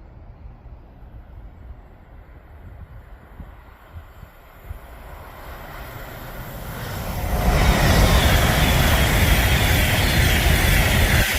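Avanti West Coast tilting express train approaching and running through the station at speed without stopping. A rumble builds over several seconds, then becomes a loud steady rush of wheels and air about seven seconds in.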